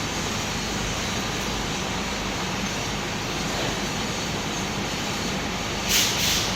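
Steady mechanical noise, with a short burst of hissing about six seconds in.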